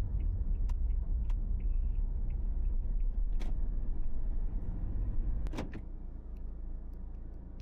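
Low rumble of a van, most likely the HiAce on the move, with scattered small clicks and a louder clack about five and a half seconds in, after which the rumble is quieter.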